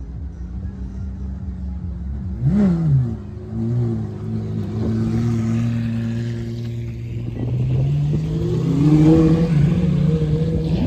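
Car engines running, with one blipped briefly in a quick rev about two and a half seconds in, then a steady drone whose pitch climbs again near the end as a car pulls away.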